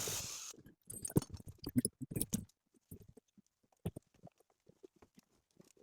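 A short burst of hiss at the start, then scattered, uneven knocks and clicks of hand work.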